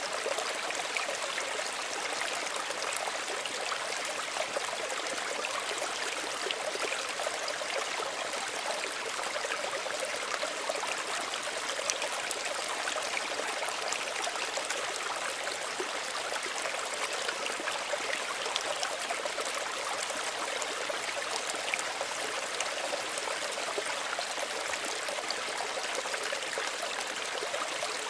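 Small stream running steadily, water trickling and babbling over stones with a constant rushing hiss and small scattered splashes.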